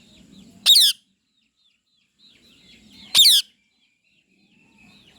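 A bird's loud, harsh call, sounded twice about two and a half seconds apart, each short and falling in pitch, with faint chirping between.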